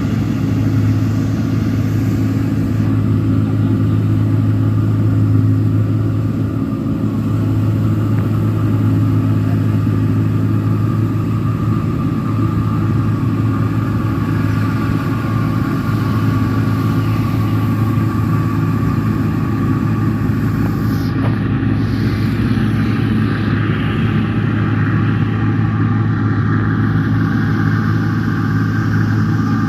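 New Holland 1545-S combine harvester with its engine running at a steady speed, a constant low drone.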